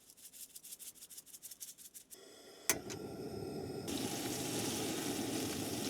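A quick run of light clicks, then about two and a half seconds in a sharp click and a steady sizzling hiss sets in: steak frying in olive oil in a pan.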